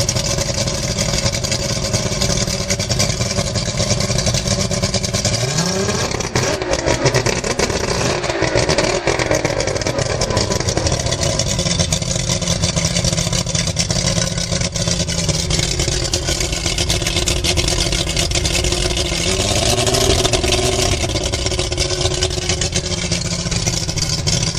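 Yamaha Vmax 150 two-stroke V6 outboard running steadily, with the throttle opened and closed twice so the engine note rises and falls, once about six seconds in and again near twenty seconds.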